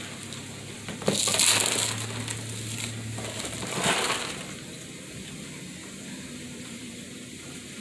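Rustling, crunching noise of handling inside a dove cage during cleaning and feeding. It comes in two bursts: a sudden one about a second in that lasts about a second, and a shorter one about four seconds in. The last few seconds are quieter, with only a steady background.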